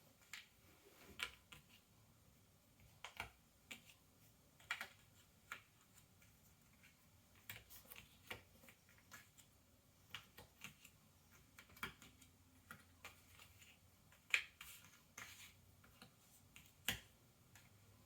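Cardboard jigsaw puzzle pieces being handled and pressed into place on a table: soft, irregular clicks and taps, a couple of them sharper, about three-quarters of the way through and near the end.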